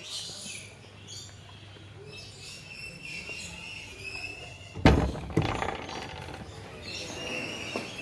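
Birds chirping and calling repeatedly in short high notes, with a sudden loud thump about five seconds in.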